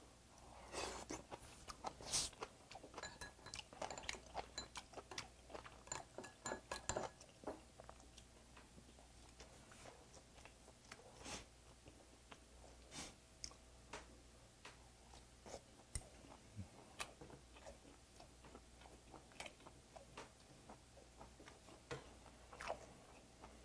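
Close-miked chewing and mouth sounds of a man eating seasoned gamtae seaweed, many small clicks close together in the first seven seconds, then only now and then.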